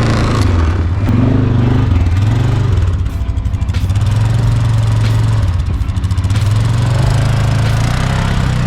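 A vehicle engine running, with background music playing over it.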